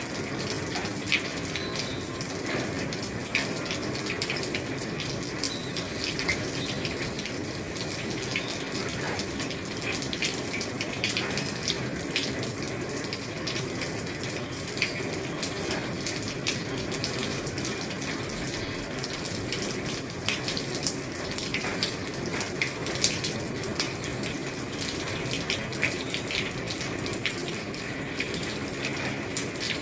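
Rain falling on an old roof: a steady hiss of rain dotted with frequent sharp ticks of single drops striking the roof.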